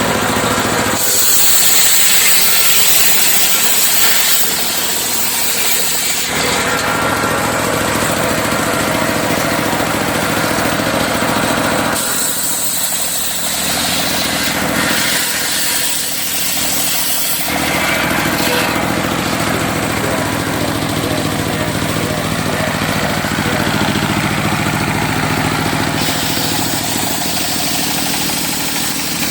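Engine-driven circular sawmill running steadily, its blade ripping through a teak log in three stretches that add a loud high hiss: from about a second in to six seconds, again around twelve to seventeen seconds, and near the end.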